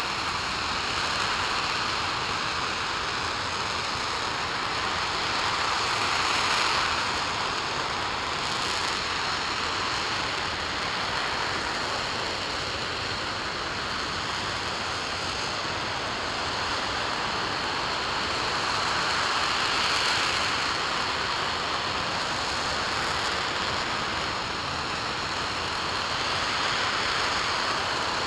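RS-25 liquid-hydrogen/liquid-oxygen rocket engine firing steadily on a test stand: a loud, continuous rushing noise that swells slightly and eases back twice.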